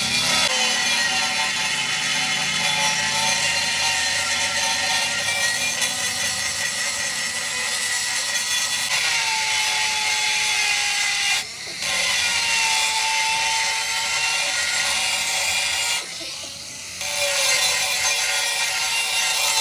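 A power tool running continuously with a high whine whose pitch shifts as it works, cutting out briefly twice: a short dip about halfway through and a pause of about a second later on.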